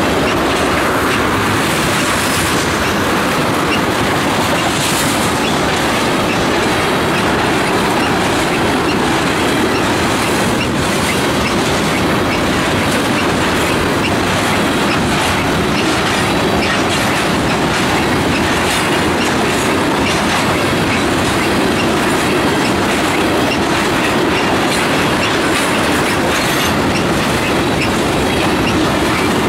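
Loaded tank cars of a freight train rolling past: a steady, loud rumble of steel wheels on rail, with rhythmic clickety-clack as the wheels cross rail joints.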